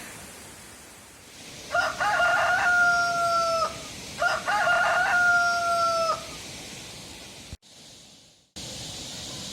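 A rooster crowing twice. Each crow lasts about two seconds, held on one pitch and dipping at the very end.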